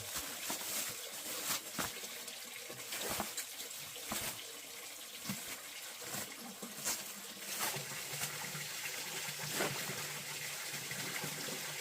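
Water running and trickling steadily, with frequent irregular short splashes or knocks.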